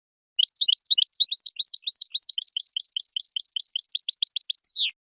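European goldfinch singing: a fast, unbroken run of high twittering notes, ending in a longer note that slides downward.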